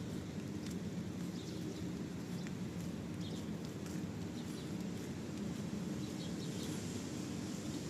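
Steady rainfall, with a few faint high chirps a little over three and about six and a half seconds in.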